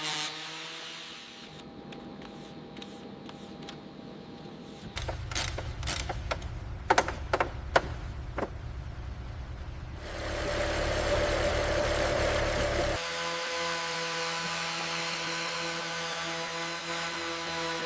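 Workshop tool sounds in changing stretches: a low rumble with several sharp knocks, then a hiss for about three seconds, then a steady machine hum.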